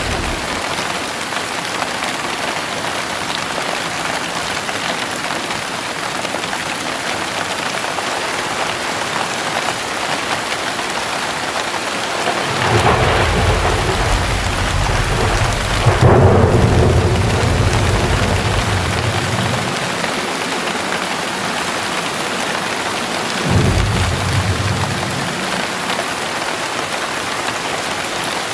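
Heavy rain pouring steadily, with thunder: a long low rumble building just before the middle with a sharper clap just past halfway, then a shorter rumble near the end.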